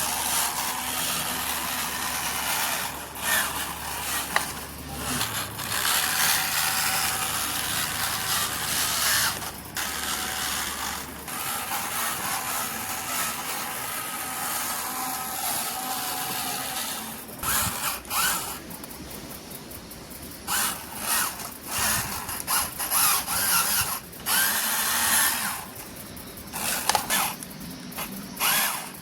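Small electric motors and gearboxes of RC toy vehicles whirring. They run steadily at first, then in short on-off bursts from a little past halfway.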